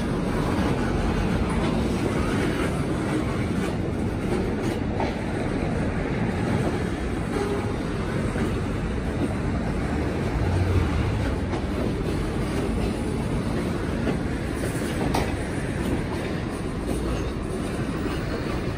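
Freight train's tank cars and flatcars rolling past: a steady rumble of steel wheels on rail, with a few sharp clicks as wheels cross rail joints.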